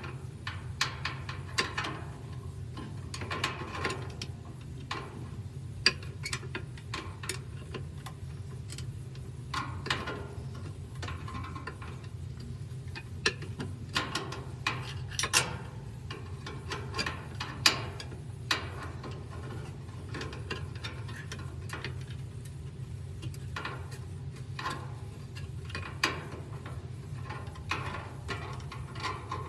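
Irregular clicks, taps and short scrapes of washing machine parts and a retaining clip being handled and fitted by hand, over a steady low hum.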